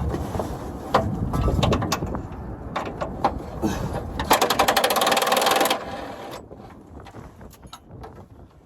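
A wrench working a bolt, with a rapid, even rattle lasting about a second and a half from about halfway through. A few sharp clicks and knocks come before it, and wind rumbles on the microphone in the first couple of seconds.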